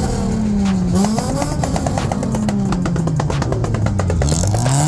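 Car engine revving up and down repeatedly, its pitch rising and falling several times in a few seconds.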